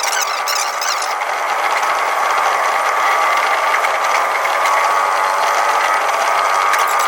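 Tokyu 5050 series electric train running, heard from the driving cab: steady running noise with rattles and a steady whine, played back at double speed.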